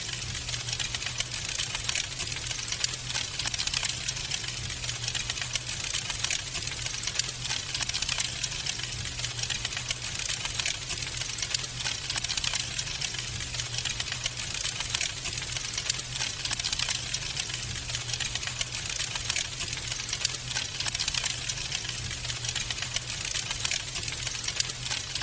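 Wood fire burning in a fireplace, crackling steadily with dense fine crackles and a few louder pops scattered through, over a faint low steady hum.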